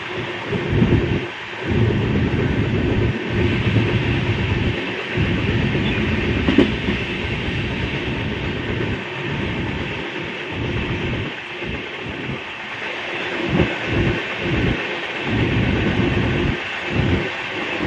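Superfast express passenger train running at speed, heard from inside a coach: a continuous rumble and rush of wheels on rail that swells and dips unevenly. A single sharp knock comes about six and a half seconds in.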